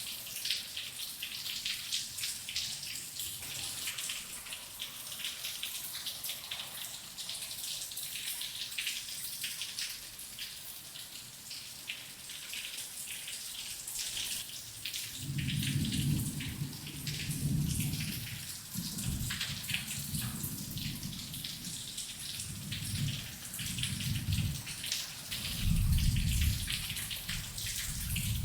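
Heavy rain falling steadily, with many individual drops clicking through the hiss. From about halfway, low thunder rolls in, swelling and fading several times and loudest near the end.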